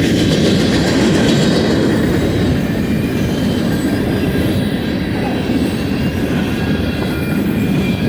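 Freight cars of a BNSF mixed manifest train rolling past: a loud, steady rumble of steel wheels on the rails, with faint high-pitched wheel squeal above it.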